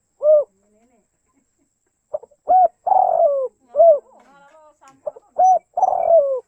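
Spotted dove cooing: the last note of one phrase, then two full song phrases about three seconds apart. Each phrase is a few short hooting notes around a longer rolling note that falls in pitch, ending on another short coo.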